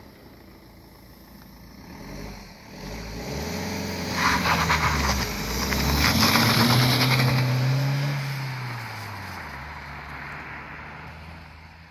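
A motor vehicle passes close by: its engine grows louder, is loudest about halfway through with a drop in pitch as it goes past, then fades away. A rattling clatter comes with it as it nears.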